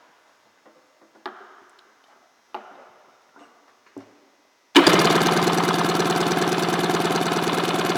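A few sharp knocks, then a little past halfway the Sea-Doo 587 two-stroke twin engine is cranked over by its starter for a compression test on the magneto-side cylinder: a loud, steady, rapidly pulsing whir that does not catch and run.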